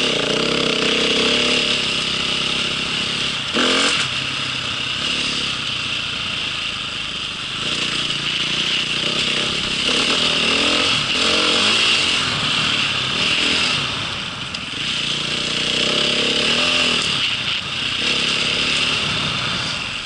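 Motocross bike engine revving up and down as the bike is ridden, over a steady hiss.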